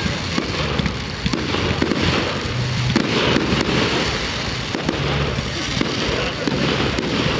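Fireworks display: a dense, unbroken run of crackling pops and bangs from bursting fireworks.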